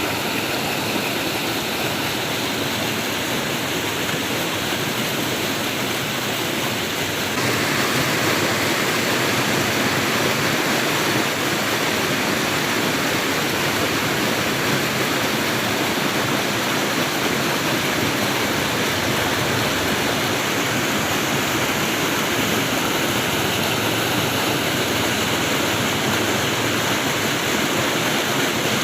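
Flowing water rushing steadily, like a stream or small waterfall. About seven seconds in it becomes a little louder and fuller.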